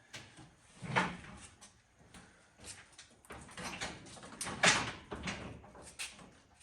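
Irregular knocks and scraping from hands-on work on a car during engine removal, with the loudest knocks about a second in and just past halfway.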